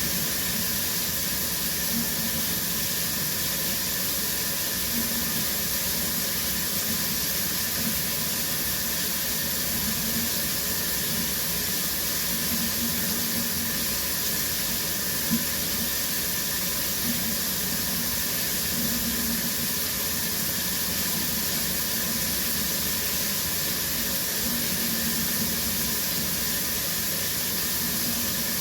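Shower running steadily, its water spray making an even hiss. There is one brief tap about halfway through.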